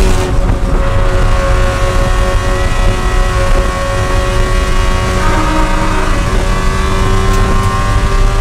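Mazda Spec Miata race car's four-cylinder engine pulling at high rpm, around 5,500 to 5,800, heard from inside the cockpit, its pitch holding nearly steady.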